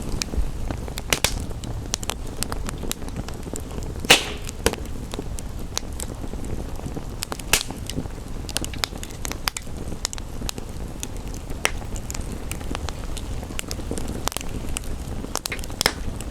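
Wood fire crackling and popping, with irregular sharp snaps over a steady low rush; the loudest pop comes about four seconds in.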